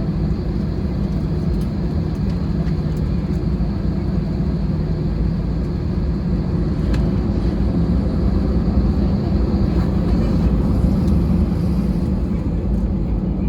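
Steady cabin noise of an Airbus A320-216's CFM56 engines running, heard from a seat behind the wing: a low, even rumble with a constant hum, growing slightly louder a little past halfway through.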